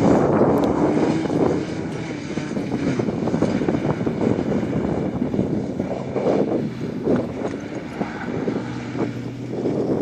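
Toyota pickup truck's engine running hard through an autocross course, easing off about a second and a half in, with wind noise on the microphone.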